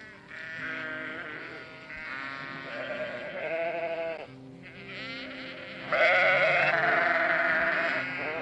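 Sheep bleating: a series of quavering bleats with short pauses between them, the loudest and longest beginning about six seconds in.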